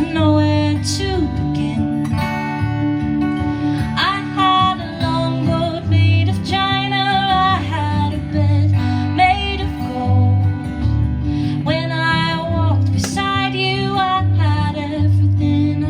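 Acoustic guitar strummed as song accompaniment, with a woman singing a melody that slides between notes.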